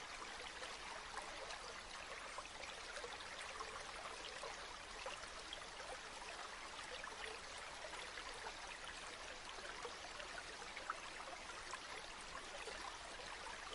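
River water flowing steadily: an even, continuous babble with small splashes, and one brief click near the end.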